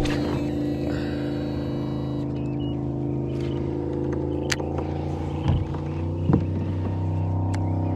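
An engine or motor running steadily with a low hum, its pitch shifting slightly near the end, with a few faint clicks over it.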